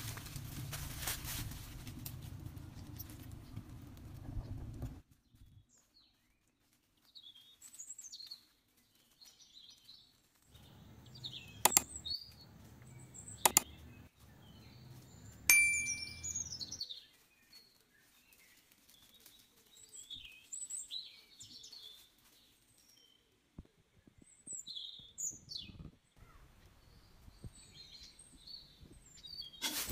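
Small birds chirping and calling, many short scattered chirps, with three sharp clicks near the middle. A low rumbling noise fills the first few seconds.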